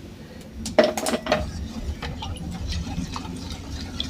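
Milk being poured, with a few knocks of kitchenware about a second in.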